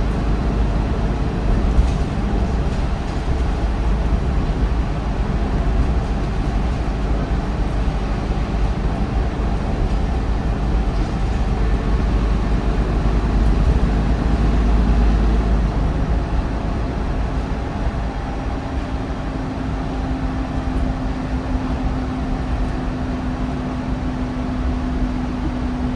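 MAN bus's D1556LOH diesel engine and ZF Ecolife automatic gearbox running under way, a steady low rumble that builds for about fifteen seconds and then eases off. A steady whine joins in past the halfway point and holds to the end.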